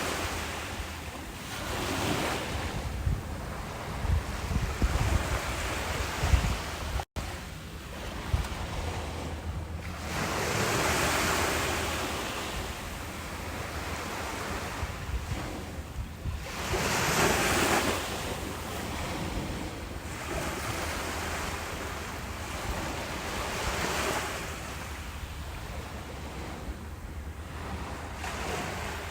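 Ocean waves breaking on a beach, the surf swelling and fading every few seconds. Wind buffets the microphone with low rumbles during the first seven seconds or so, and the sound cuts out for an instant about seven seconds in.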